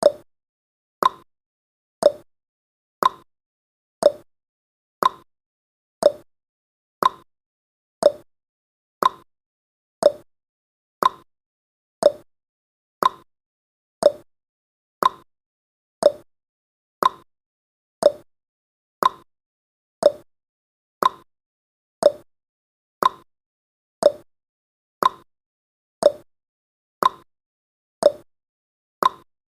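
Clock-ticking sound effect of a countdown timer: a short, sharp tick once a second, steady and even.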